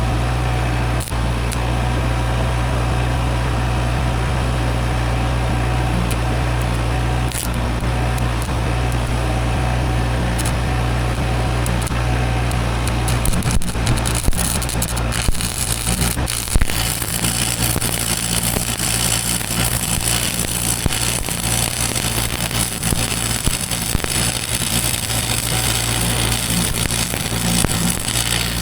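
An engine running steadily at idle; about 13 seconds in, a rough crackling, hissing noise joins it and carries on, with a few sharp knocks shortly after it starts.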